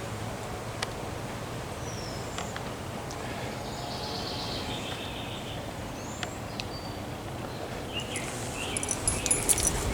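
Outdoor garden ambience: a steady background hiss with a few short bird chirps, and some rustling near the end.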